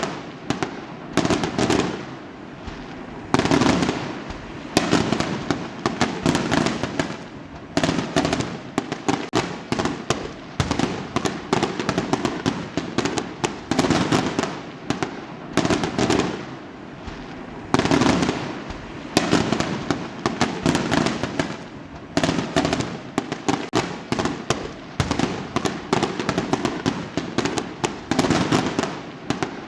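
Fireworks going off in a continuous barrage: a loud bang every second or two over steady, dense crackling.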